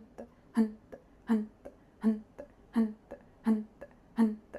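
Kapalabhati breathing: a steady train of sharp, forceful exhalations about 1.4 a second, each pushed out with a short grunted 'hunt', with a soft passive inhale between strokes.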